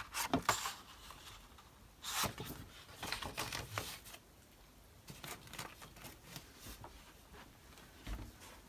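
Sheets of card stock being leafed through and handled in a search for a darker sheet: an irregular scatter of brief rustles and light taps, in several bunches.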